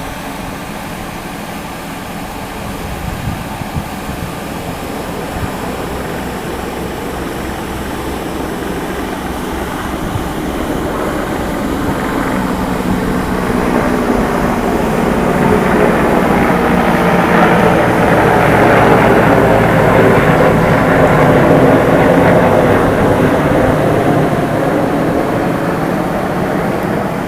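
Luftwaffe CH-53G heavy-lift helicopter flying past, its turbine whine and rotor sound a steady hum of several tones over a low beat. It grows louder for about twenty seconds, peaks about two thirds of the way through, then begins to fade.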